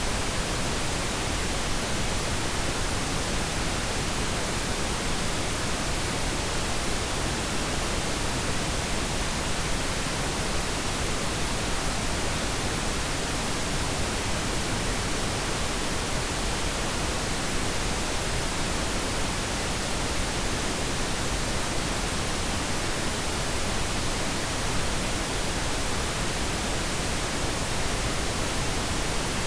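Steady, unchanging pink noise: an even hiss spread across all pitches, softer and deeper than white noise.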